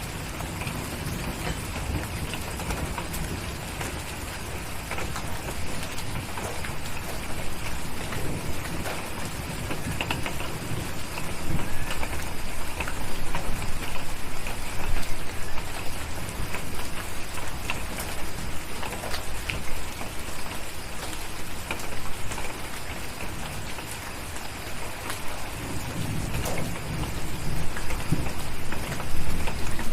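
Steady rain pattering on a surface, with low thunder rumbling, which swells again near the end.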